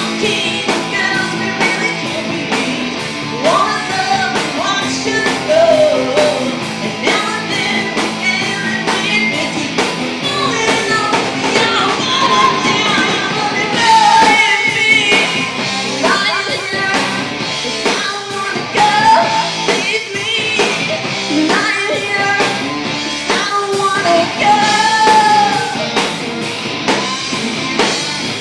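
A female vocalist singing a rock song, with a band playing live behind her.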